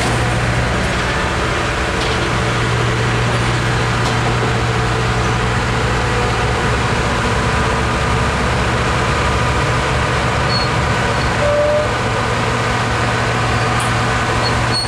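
Diesel locomotive engine idling with a steady low drone.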